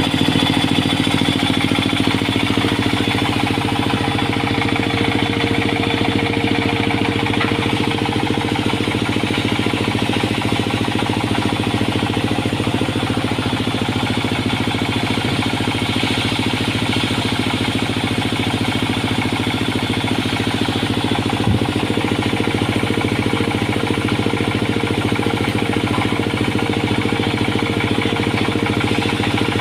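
Sawmill machinery running steadily: an engine with a fast, even pulse and a steady hum that holds unchanged throughout.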